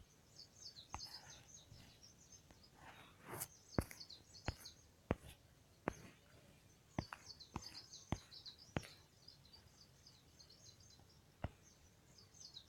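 Faint birds chirping and twittering in the background, with a dozen or so scattered sharp clicks.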